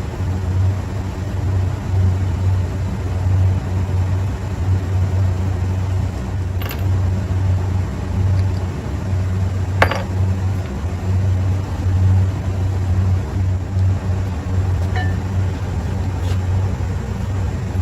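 Steady low machinery hum, with two or three short sharp taps of handled metal parts, the loudest about halfway through.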